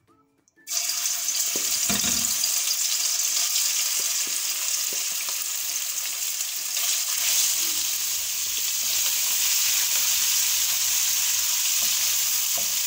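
Marinated prawns dropped into hot oil in a non-stick wok: a loud sizzle starts suddenly under a second in and keeps on steadily as they fry on a high flame, with a wooden spatula stirring them near the end.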